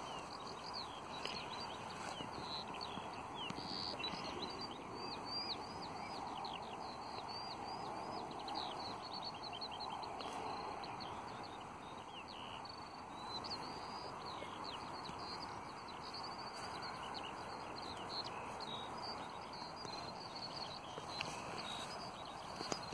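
Small birds chirping in quick runs of short, high notes over a steady outdoor background hiss.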